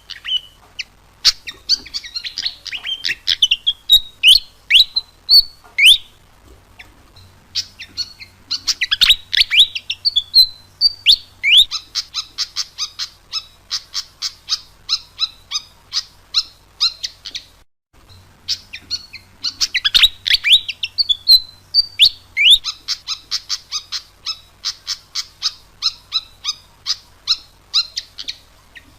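Fantail (sikatan kipas) singing energetically, a lure-call song: long runs of rapid high chirps and sweeping whistled notes, in three phrases split by short pauses.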